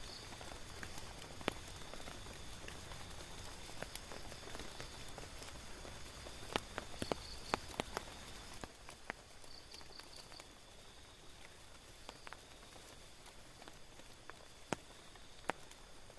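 Rain falling on a tent, a steady hiss with scattered sharp drops ticking on the fabric. A cluster of louder drips comes around the middle, and the hiss eases a little just past halfway.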